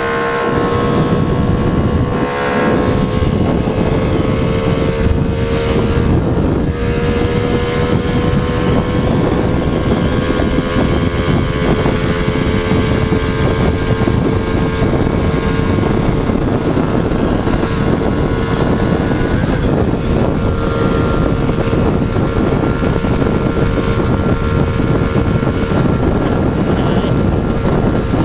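Motorcycle engine running steadily at road speed, its pitch creeping slowly upward, with heavy wind rush on the microphone.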